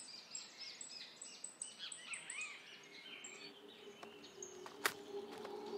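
Several birds chirping and calling, with many short rising and falling notes. About halfway through, a low steady held tone comes in and grows louder, and a single sharp click sounds near the end.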